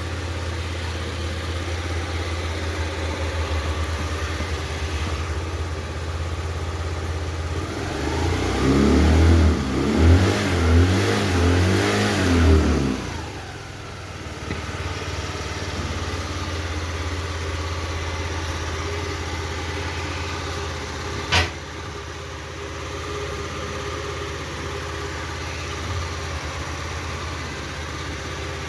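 Motorcycle engine idling steadily, blipped up in several short revs for about five seconds partway through, then settling back to idle. A single sharp click about two-thirds of the way in.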